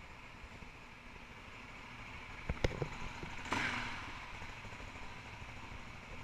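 KTM 625 SXC's single-cylinder four-stroke engine running at low speed as the bike rides past. A couple of sharp knocks come about two and a half seconds in, and a short louder rush follows a second later.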